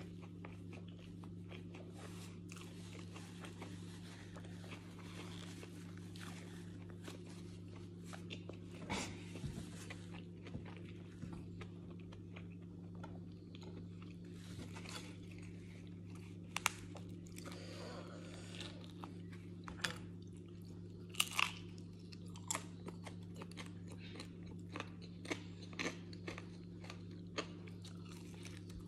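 A person eating: scattered crunches and clicks from biting and chewing, among them a bite into a crisp seeded cracker near the end, over a steady low hum.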